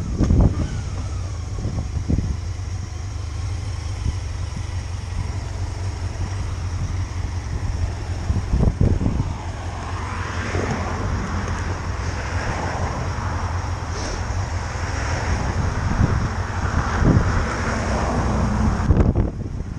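Motorcycle on the move: engine and road noise under a heavy wind rumble on the microphone. A louder rushing swells from about halfway, and the sound drops away just before the end.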